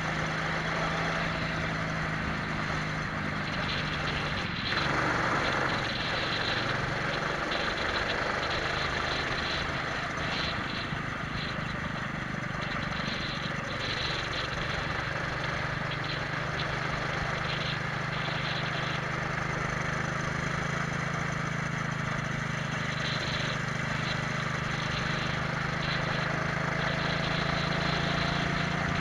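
Twin-engine Prokart's engines running at speed, heard onboard under steady wind noise on the microphone. The engine note shifts about five seconds in, after a brief louder rush of wind, then runs steady again.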